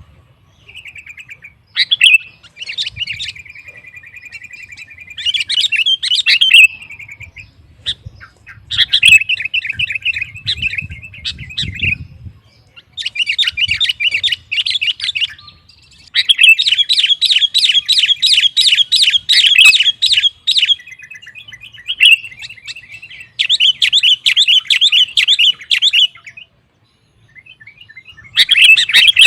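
Sooty-headed bulbul (kutilang) singing in energetic bouts of rapid, chattering chirps, each burst lasting a few seconds with short pauses between, and a longer pause near the end.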